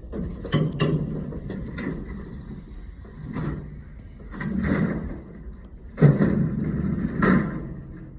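Delivery truck's engine running low and steady, with a series of knocks and clunks, about seven in all, the loudest about six seconds in.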